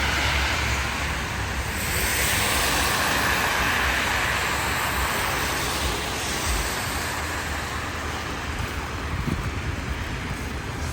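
City street traffic on wet, slushy roads: a steady hiss of tyres, swelling as a vehicle passes a couple of seconds in.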